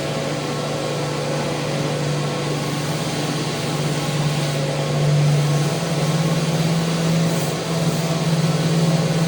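Electric power sander running steadily on a wooden handrail: a constant motor hum with a hiss of sanding over it, the pitch wavering slightly around the middle.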